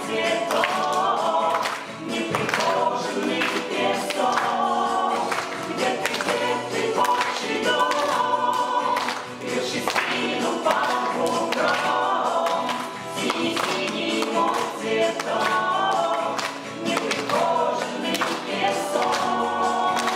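A small vocal ensemble singing a folk song in several voice parts, phrase after phrase with short breaks between.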